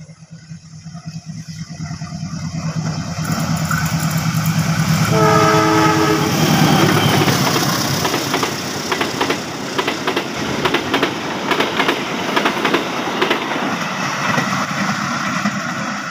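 Diesel-hauled passenger train approaching with a growing engine drone. Its horn sounds once for about a second, a little after five seconds in. The train then passes close by with a loud roar and a rapid clatter of wheels over the rail joints.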